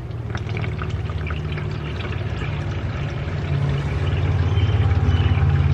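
Warm engine oil draining out of the oil pan into a drain pan: a steady pouring stream that gets a little louder about three and a half seconds in.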